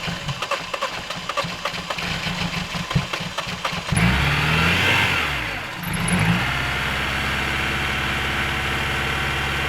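Car engine being cranked by the starter in deep frost, catching about four seconds in, briefly revving up and down, then settling into a steady idle: a hard cold start at about −25 °C.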